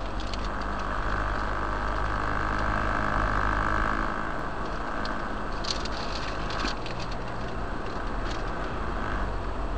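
Motor vehicle driving on a road: a steady low engine hum under road noise, with a few light clicks or rattles in the second half.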